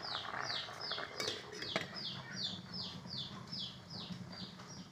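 A bird chirping over and over, short high falling chirps about two and a half a second. About a second and a half in comes a light clink, the glass lid being set on the steel pot.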